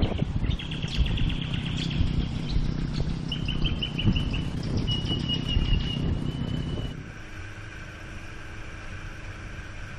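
Birds singing, several rapid chirping trills over wind buffeting the microphone. About seven seconds in this gives way abruptly to the steady hum of a dinghy's outboard motor running.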